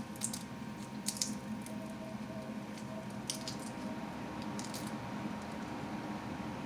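Close-miked eating sounds: a person chewing shrimp and scallops, with a few short wet smacks and crackles at the mouth, over a steady low hum.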